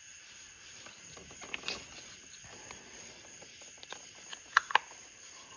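Small clicks and light handling noises of carburetor parts being handled, with two sharp clicks close together about four and a half seconds in, over a steady high-pitched hiss.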